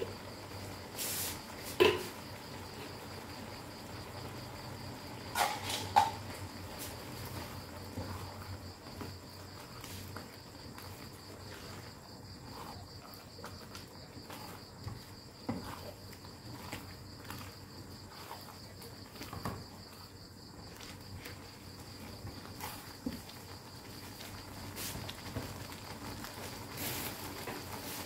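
Rendang chilli paste sizzling steadily in a wok, with a spatula knocking and scraping against the pan as it is stirred: a few loud knocks in the first six seconds, then small ticks and scrapes.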